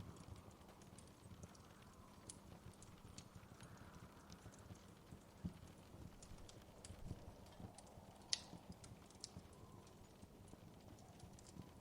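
Wood fire crackling softly in a fireplace: irregular small pops and snaps over a low, soft rumble, with one sharper snap about 8 seconds in.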